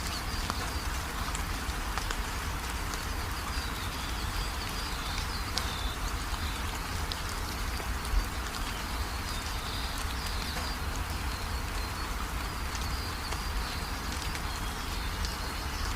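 Steady rainfall, an even hiss of rain on surfaces, with faint high chirping running through it and a single sharp drip or tap about halfway through.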